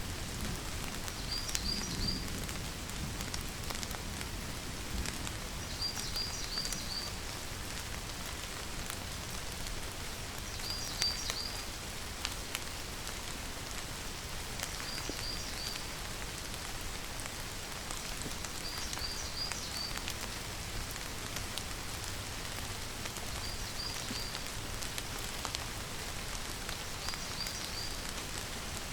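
Steady rainfall, with a short group of three or four quick high chirps repeating about every four to five seconds.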